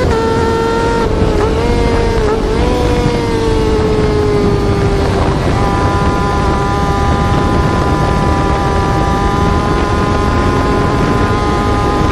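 Yamaha R6 inline-four sport-bike engine note held at high revs, a steady high-pitched tone that dips briefly about one to two seconds in and steps down slightly about five seconds in, over a rough low rumble.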